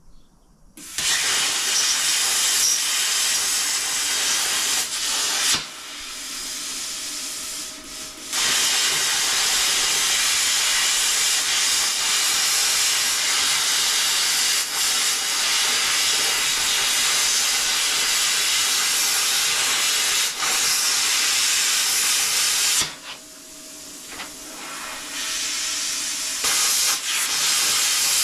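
Plasma cutter cutting steel plate: a loud, steady hiss that drops away twice for a couple of seconds, about six seconds in and again near the end.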